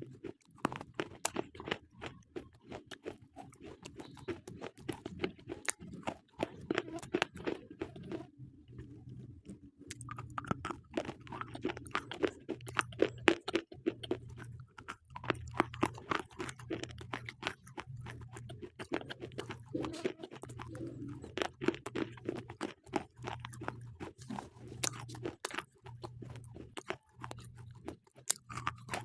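Slate pencils being bitten and chewed close to the microphone: dense, crisp crunching, with a brief lull about eight seconds in.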